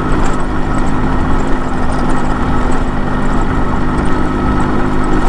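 Yamaha RX 100's air-cooled two-stroke single-cylinder engine running steadily while the motorcycle cruises at an even speed, under wind and road noise.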